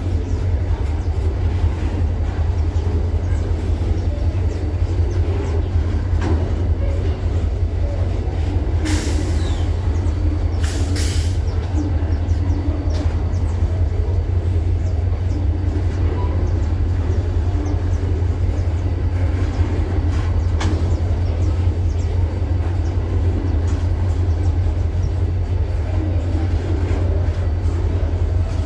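Train running through a rail yard: a steady low rumble throughout, with brief high hisses about nine and eleven seconds in.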